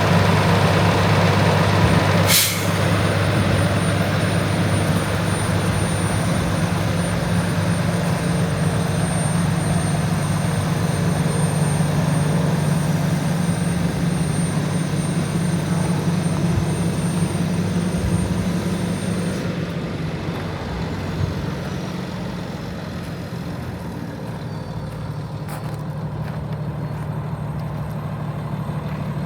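2014 Freightliner M2106's Cummins ISL inline-six diesel idling steadily, with one short, sharp sound about two seconds in. After about twenty seconds the running turns a little quieter and duller.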